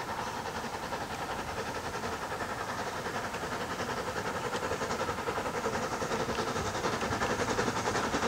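Heritage train approaching along the line, growing steadily louder, with an even pulsing beat of about four a second.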